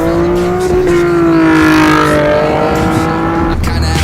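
Car engine revving up and held at high revs, the pitch steady for a few seconds with a slight dip past the middle.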